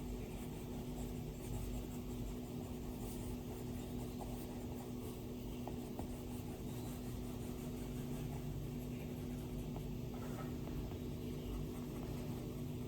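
Stylus strokes on an iPad screen: faint scattered ticks and light scratching over a steady low hum.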